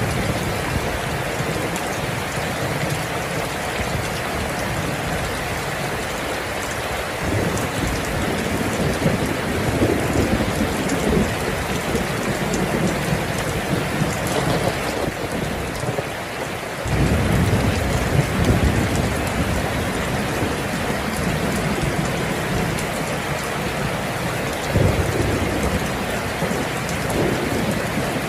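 Steady rain falling, with low rumbles of thunder swelling up about a quarter of the way in, more strongly just past halfway, and again near the end.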